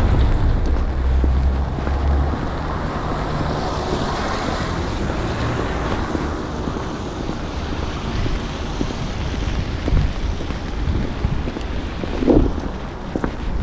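Steady outdoor street ambience in wet, snowy weather: a rushing noise with a low rumble for the first couple of seconds and a few soft knocks near the end.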